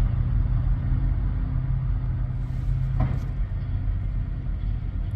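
Heavy mining equipment's large diesel engine running with a steady low rumble; a brief knock about three seconds in.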